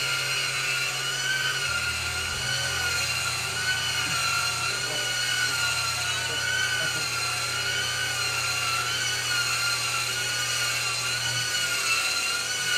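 Vacuum motor running steadily with a high whine that wavers slightly in pitch, sucking up carpet dirt.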